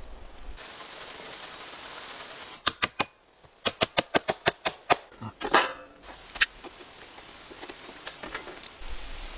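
A run of sharp taps or knocks: four quick ones, then about nine more in a fast run, followed by a short scraping rustle and one more knock.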